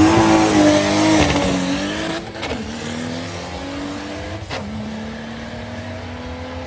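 Car engine accelerating hard through the gears, its pitch climbing steadily and dropping briefly at upshifts about two and four and a half seconds in.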